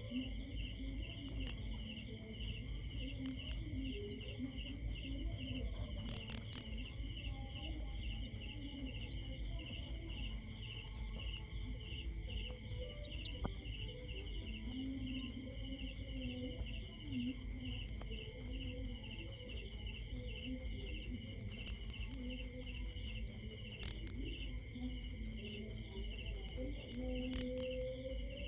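Cricket chirping in a fast, very regular rhythm, about five high-pitched chirps a second, with one brief break about eight seconds in.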